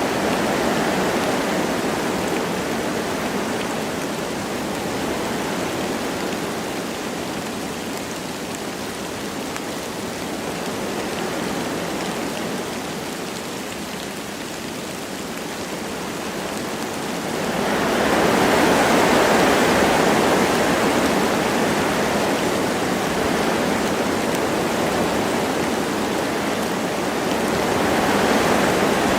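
Wind blowing through forest trees with light rain, a steady rushing hiss that swells in gusts, with a stronger gust rising about two-thirds of the way through.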